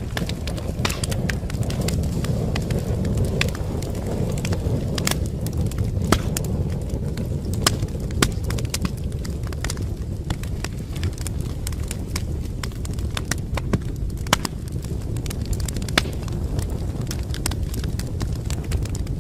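Fireplace fire crackling: a steady low rumble of burning with frequent irregular sharp pops and snaps, a few of them louder.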